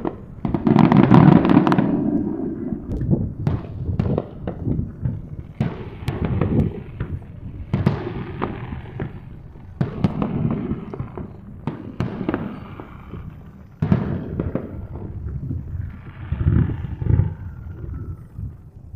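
Fireworks display: aerial shells bursting in a dense run of deep booms and crackling reports. The loudest burst comes about a second in.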